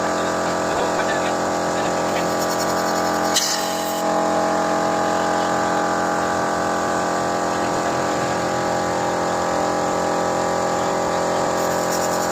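Car engine idling steadily at constant speed, with a brief hiss about three and a half seconds in.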